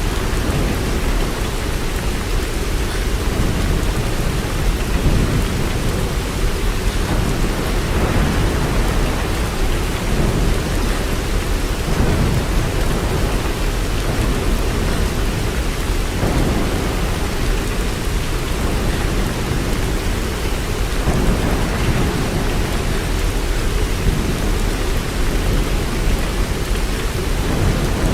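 Steady rain, an even hiss of falling drops, over a continuous low rumble that swells every few seconds.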